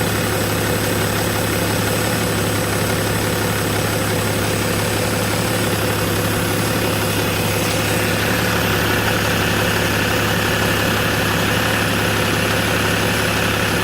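BMW E61 525d's 3.0-litre straight-six diesel engine idling steadily, with a hiss higher up that grows a little stronger about eight seconds in.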